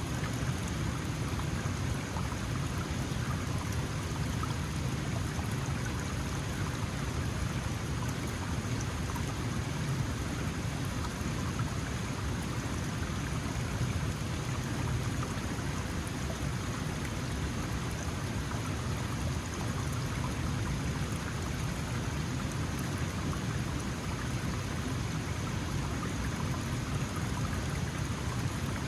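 Small mountain stream flowing steadily.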